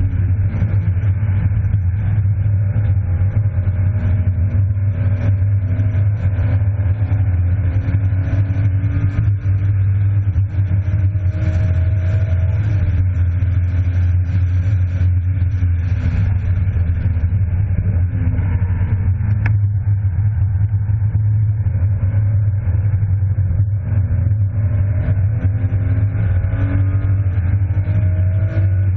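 BMW E36 325i's 2.5-litre straight-six heard from inside the cabin under hard track driving. The engine note climbs slowly and drops back a few times as the driver accelerates, lifts and shifts. Beneath it runs a steady low cabin rumble.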